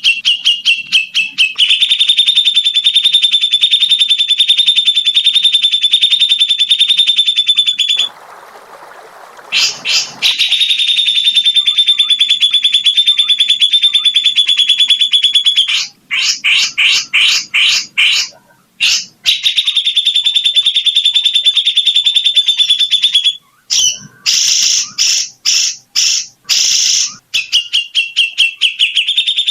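Bird giving long, very rapid trills at one steady, high pitch, each held for several seconds, broken up by runs of quicker separate notes; a brief hiss fills a gap about eight seconds in.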